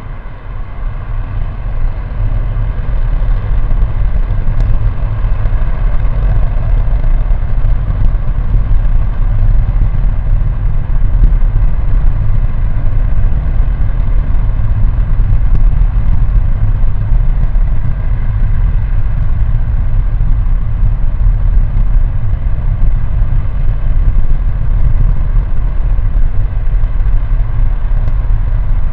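Next-generation SpaceX Raptor rocket engine firing in a ground test: a loud, steady, deep roar that builds over the first few seconds and then holds.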